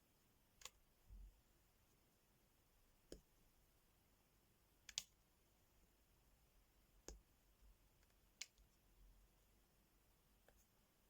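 Faint, sparse light clicks and taps of small plastic pieces being handled, about one every one to two seconds, with a soft low thud early on.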